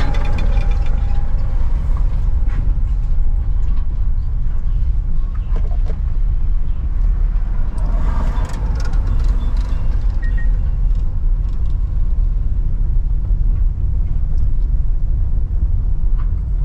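Car being driven, a steady low rumble of engine and tyre noise over a road surface under repair. A few faint knocks come about halfway through.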